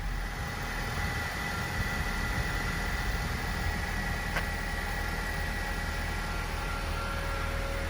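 2011 Honda Civic GX's 1.8-litre inline-four, running on compressed natural gas, idling steadily just after a cold start following about 25 days unused. A faint steady high whine sits over the idle, and a single click comes a little past halfway.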